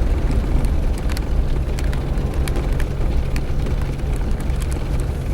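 Suzuki Jimny's engine running steadily while driving on a dirt road, with scattered sharp clicks and knocks over the rumble.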